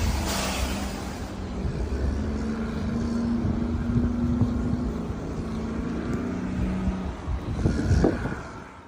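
A motor vehicle's engine running with a steady low hum over a rumble.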